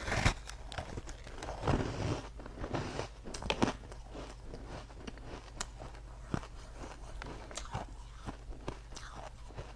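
A person biting into ice close to the microphone, crunching. The biggest bites come in the first few seconds, followed by smaller crackling crunches.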